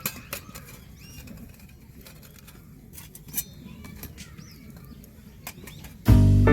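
Faint birds chirping over quiet outdoor ambience, with scattered sharp clicks; background music with guitar and piano starts abruptly about six seconds in.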